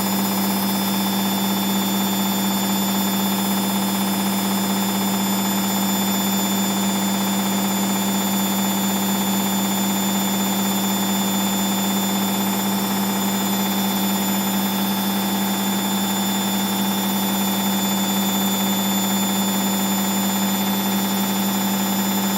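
Hoover DXA 48W3/1-80 washing machine spinning at full speed on a newly repaired drive belt: a steady, even whir with a strong constant hum, holding speed without change.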